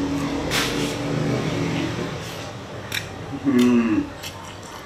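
A person chewing a bite of fresh spring roll with crisp lettuce and herbs: scattered crunchy, crackling chewing sounds, with humming while he chews and a louder hummed "mmm" about three and a half seconds in.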